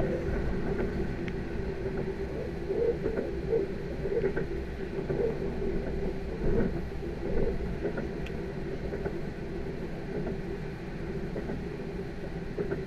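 Interior running noise of a Moscow Central Circle electric train (Lastochka EMU) under way: a steady rumble with a steady hum, and a few faint knocks from the running gear.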